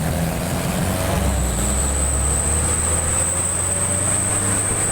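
A truck's engine running under way, a steady low drone with road noise, joined about a second in by a thin, high, steady whine.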